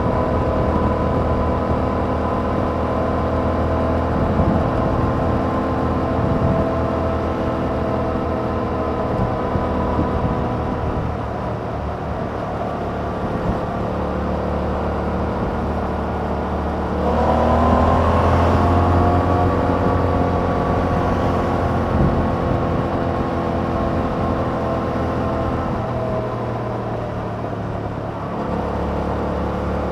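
2021 Yamaha MT-07's parallel-twin engine, on its stock exhaust without a dB killer, running under way at a steady cruise. About halfway through, the engine note rises and gets louder as the throttle opens, then holds. Near the end it eases off and steadies again.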